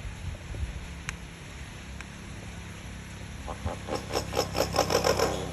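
Talking bird giving a fast run of harsh, rasping chatter notes, several a second, starting at about three and a half seconds and lasting nearly two seconds, over a low hum. A single sharp click about a second in.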